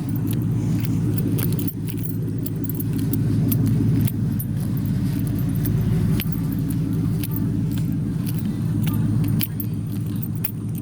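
Steady low rumble of an idling car engine, with keys jangling in frequent sharp clicks over it.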